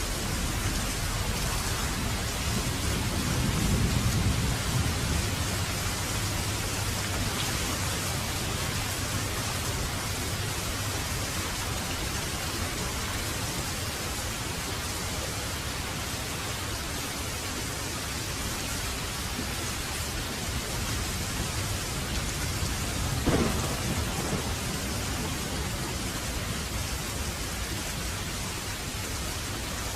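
Heavy rain falling steadily, with a low roll of thunder a few seconds in and a sharper thunderclap with rumble about two-thirds of the way through.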